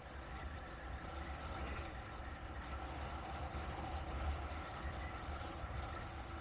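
Steady low rumble of a vehicle driving, engine and road noise without any sharp events.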